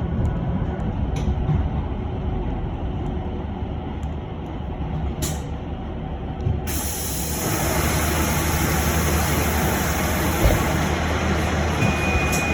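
Interior of an electric bus at a stop: a steady low hum, a short blast of air about five seconds in, then a sudden steady hiss of compressed air from about seven seconds on, the bus's pneumatic system venting air.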